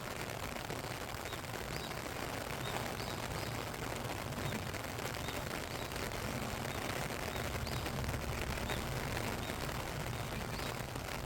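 Steady rain falling, a dense, even patter.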